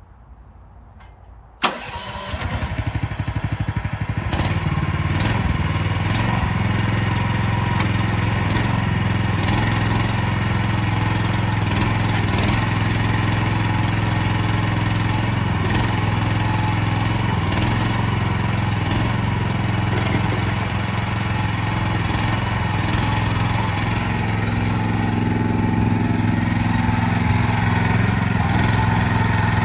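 Mini excavator engine starting: it catches with a sudden onset about two seconds in, then runs steadily at idle.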